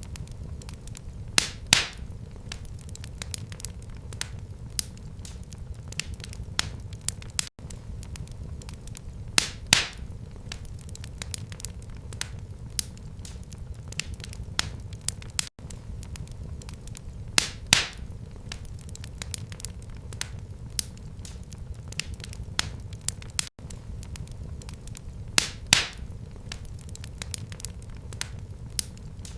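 Wood fire in a fireplace crackling, with frequent small snaps over a steady low rumble and a louder pop about every eight seconds.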